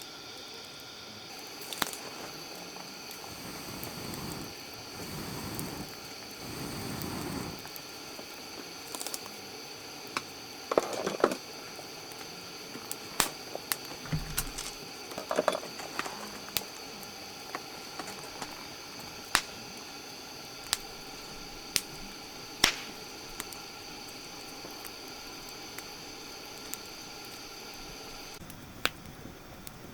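Wood campfire crackling, with isolated sharp pops every second or two and a few rustling handling noises in the first third.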